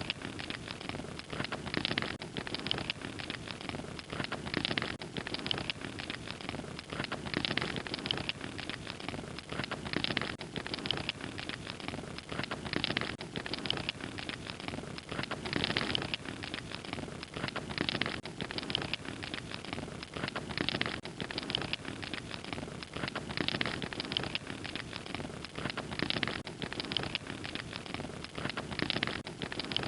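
Wood fire crackling: a steady hiss of burning with dense small pops and a louder snap every couple of seconds.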